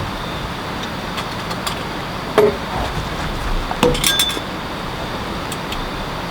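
A few light clinks of hard objects knocking together: one about two and a half seconds in and a short cluster near four seconds, one with a brief high ring. A steady hiss underneath throughout.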